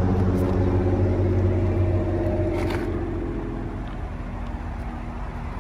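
A motor vehicle's engine running with a steady hum that slowly fades away. About two and a half seconds in there is a short click as the car's front door is opened.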